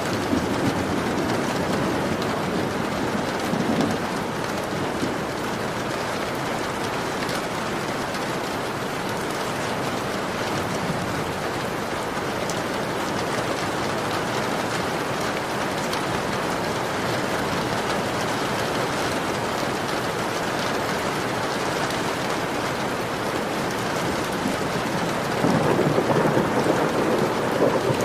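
Heavy rain beating steadily on a window pane. A deeper, louder rumble swells in about three seconds before the end.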